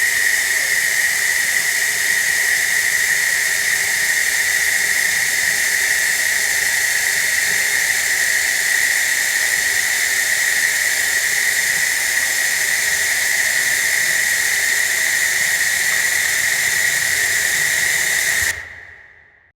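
Steady hiss of running water altered by a voice-changer effect, with a steady high tone riding on it, fading out near the end.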